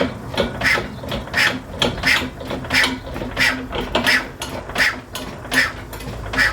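Vintage hit-and-miss engine being turned over by hand and failing to start, a rhythmic sound about once every 0.7 seconds over a steady low hum.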